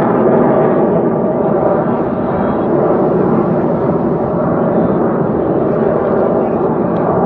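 Steady jet engine roar of U.S. Navy Blue Angels F/A-18 Hornets flying a high-speed pass overhead.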